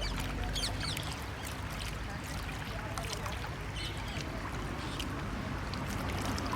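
Outdoor evening ambience: many short, high bird chirps over a steady low rumble.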